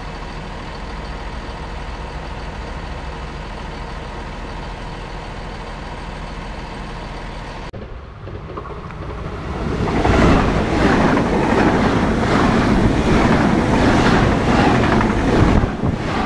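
A standing red regional railcar's engine idling with a steady hum. It cuts off about eight seconds in; then an ICE high-speed train rushes past close by, a loud rush with a fast regular clatter of wheels over the rails.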